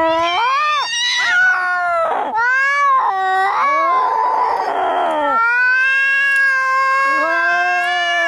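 Angry cats caterwauling as in a fight: long, drawn-out yowls that bend up and down in pitch. About four seconds in there is a harsh, noisy cry, then a long held yowl.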